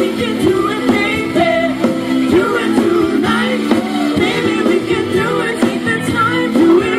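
A live band playing a pop-rock song, with a singer's voice carrying the melody over the instruments.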